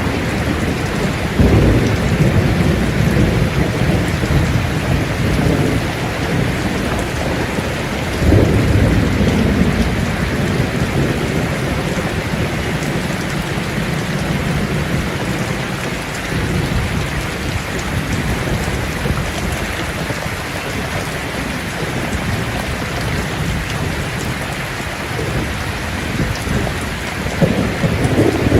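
Steady rain with low rolls of thunder, swelling about a second and a half in, again around eight seconds in, and once more near the end.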